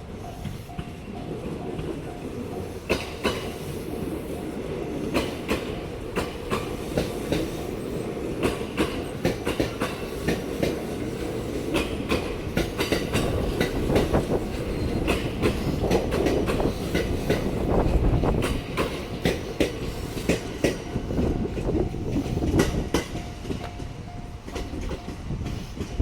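A train running past at a level crossing: a steady rumble with the wheels clicking over the rail joints, loudest midway. A repeating level-crossing warning bell rings at the start and again near the end.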